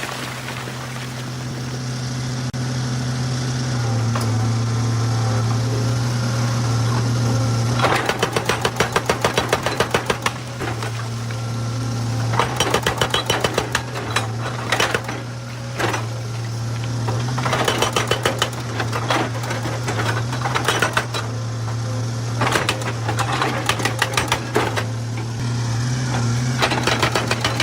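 Excavator engine running steadily under load while a hydraulic breaker hammers rock in repeated bursts of rapid strikes, about ten a second, starting about a third of the way in.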